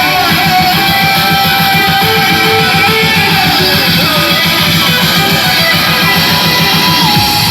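Loud music played through a sound system, with electric guitar over a fast, even bass pulse and sliding melody lines.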